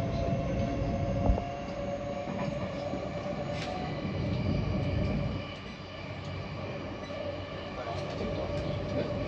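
Running sound heard inside a JR West 225 series electric train car under way: a steady rumble of wheels on rail with an even whine. A few sharp ticks come through in the second half.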